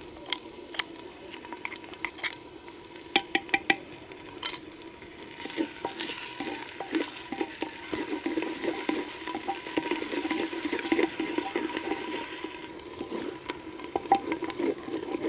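Chopped green garlic frying in hot oil and onions in a clay handi, sizzling while it is stirred with a wooden spatula. A few sharp taps in the first few seconds as the garlic is scraped from a bowl into the pot; the sizzle swells about five seconds in and eases off near the end.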